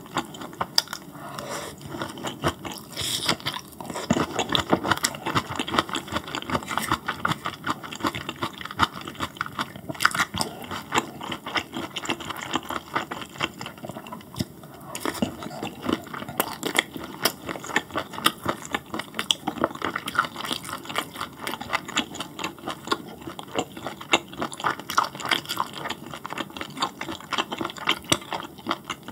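Close-miked chewing of grilled beef intestines, with dense, irregular wet clicks and crackles throughout.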